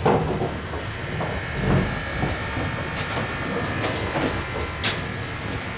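Suburban electric train running: a steady, loud rumble and hiss with a few sharp clicks and knocks, the clearest about three and five seconds in.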